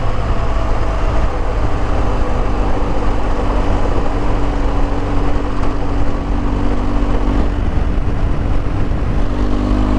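Motorcycle engine running at a steady cruising speed, with heavy wind and road noise over it.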